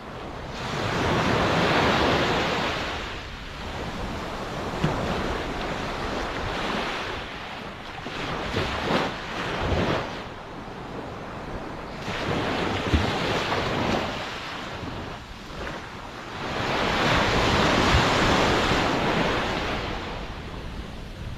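Ocean waves breaking and washing ashore in slow surges, the loudest about two seconds in and another near the end, with wind rumbling on the microphone.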